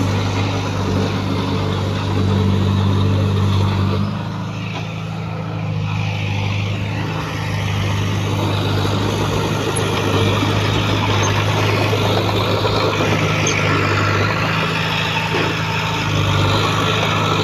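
Heavy earthmoving equipment's diesel engine running steadily under load. It eases off about four seconds in and builds back up by the middle.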